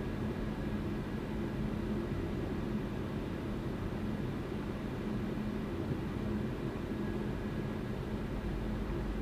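Car driving at a steady speed: a constant engine drone with a low hum and road noise, unchanging throughout.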